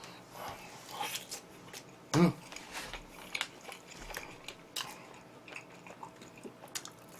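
Close-miked biting and chewing of oven-roasted chicken: irregular small crunches and wet mouth clicks.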